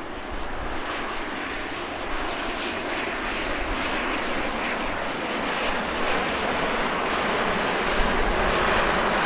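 Fixed-wing aircraft flying past, a steady engine noise that slowly grows louder.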